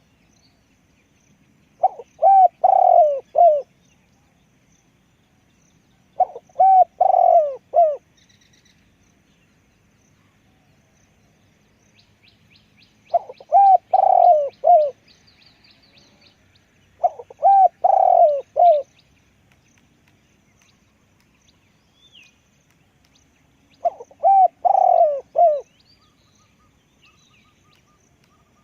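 Spotted dove cooing: five separate coo phrases of about two seconds each, several seconds apart. Faint chirps of small birds in between.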